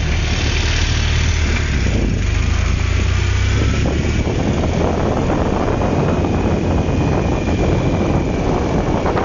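BMW motorcycle-and-sidecar combination's engine running steadily, then about four seconds in the sound opens out into a broader, noisier rush as the outfit gets moving, with wind noise building.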